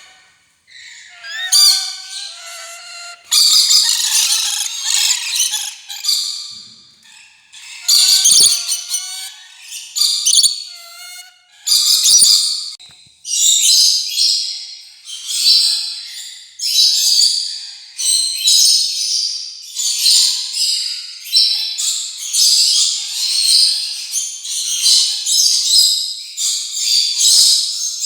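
Rainbow lorikeets chattering: a few whistled notes, then a run of harsh, shrill screeches, about one a second through the second half.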